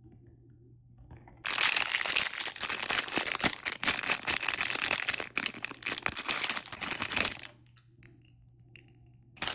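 Toy packaging being crinkled and torn open: a dense crackling that starts about a second and a half in and stops about two seconds before the end, then starts again at the very end.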